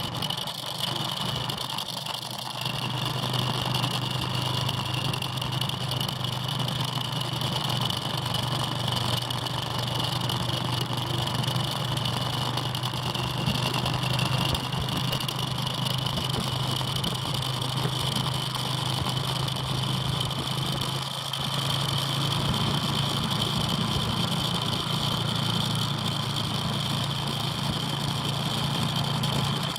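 Lead-out motorbike's engine running steadily at an even pace as it paces riders around the track. The engine note dips briefly about 21 seconds in, then settles a little higher.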